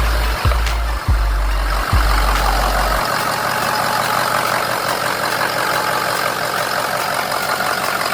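Ford 6.0 Powerstroke V8 turbo-diesel idling steadily, with a few deep thumps in the first three seconds.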